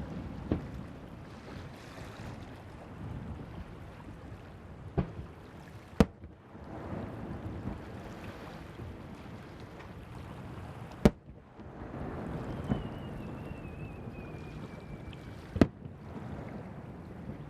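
Fireworks bursting over the sea: about five sharp bangs a few seconds apart, over a steady rumble of wind and surf. A faint falling whistle sounds near the end.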